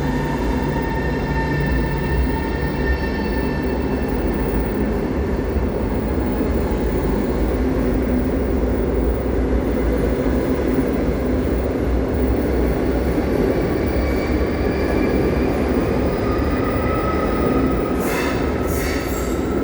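Polish Pendolino electric trainset pulling away. A steady rumble carries a tonal electric whine that rises in pitch over the last few seconds as the train gathers speed, with a few sharp clacks near the end.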